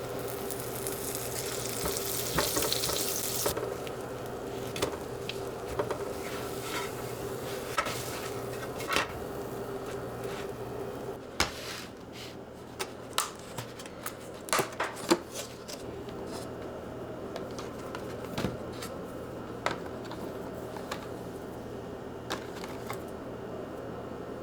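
Food sizzling in a frying pan for the first few seconds, then a string of sharp clicks and knocks of utensils against the pan and dishes, over a steady low hum.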